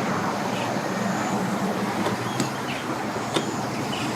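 A vehicle engine idling with a steady low hum, with two faint clicks in the second half.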